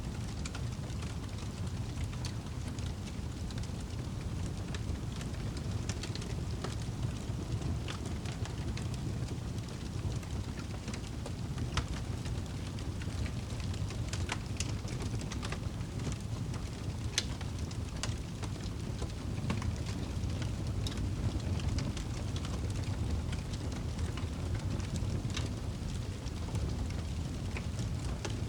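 Campfire burning, with irregular sharp crackles and pops from the wood over a steady low rushing background.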